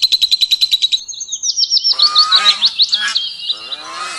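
Birds calling: a fast, high trill that changes about a second in to a run of sweeping chirps. From about two seconds in, lower, coarser calls join in.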